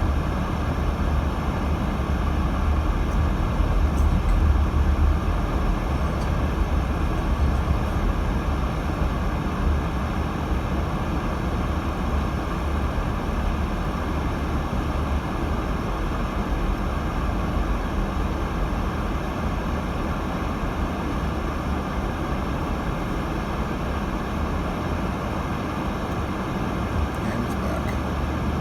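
Cabin noise of a 2018 Subaru Crosstrek driving on snowy roads, heard from the dashboard: a steady low rumble of road, tyres and engine, a little louder in the first few seconds.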